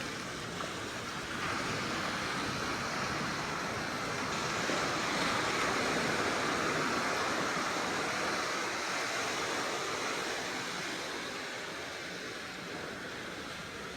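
Sea waves washing in, a steady rush that swells about halfway through and eases off near the end.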